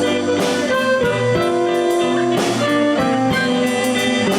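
Live blues band of guitars, bass, harmonica and drums playing an instrumental passage between sung lines, with bending lead notes over a steady drum beat.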